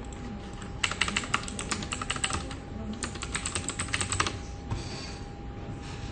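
Computer keyboard typing in two quick runs of keystrokes, each about a second and a half long with a short pause between, over a faint steady hum and low room rumble.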